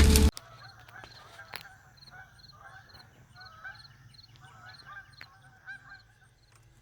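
A loud burst of crackling cuts off abruptly just after the start. Then come faint, repeated honking animal calls, with faint evenly spaced high ticks behind them.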